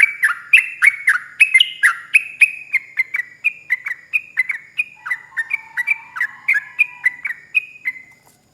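Yellow-vented bulbul (trucuk) singing a long, rapid run of loud, swooping chirps, about three to four notes a second, stopping shortly before the end.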